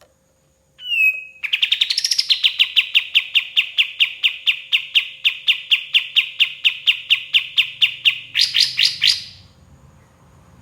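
Kapas tembak songbird singing: one short note, then a long, loud trill of rapid repeated notes, about five or six a second, ending in a quicker flurry of rising notes.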